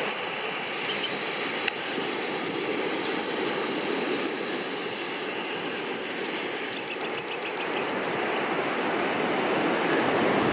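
Surf washing onto a sandy beach, a steady rushing noise that swells near the end, with one sharp click about a second and a half in.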